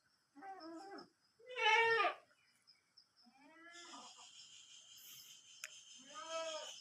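Four drawn-out animal calls, each under a second long, the second the loudest. A steady high-pitched hiss comes in about halfway through and runs under the last two calls.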